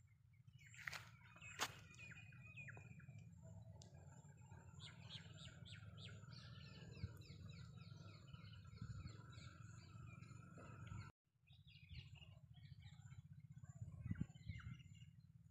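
Birds chirping faintly, with runs of short, quick repeated notes, over a steady low rumble. Two sharp clicks come about a second in, and the sound cuts out briefly about two-thirds of the way through.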